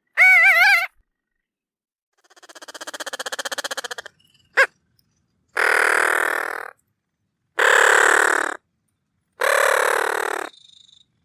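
Bridled tern calls: a short wavering call, then a buzzy rattling call that swells in loudness, a brief chip, and three harsh calls of about a second each, separated by silences.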